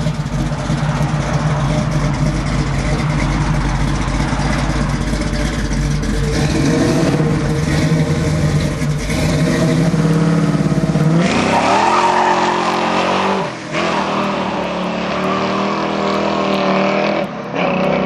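A 1967 Camaro's rebuilt 427 big-block V8 running steadily, then accelerating hard about eleven seconds in, its pitch climbing. The pitch drops back briefly twice, once a couple of seconds later and once near the end, each followed by another climb.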